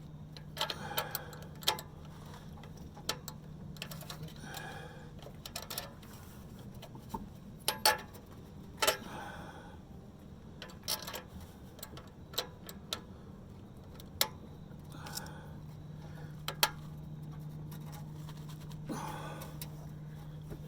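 Irregular metallic clinks and knocks of hand tools and exhaust clamp hardware being worked on an exhaust pipe, over a steady low hum.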